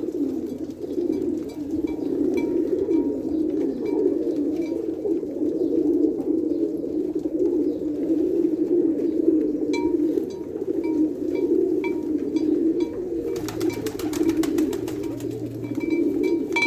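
Domestic pigeons cooing continuously, several birds overlapping in a steady low warble. A faint high tick repeats about twice a second, and a run of clicks comes near the end.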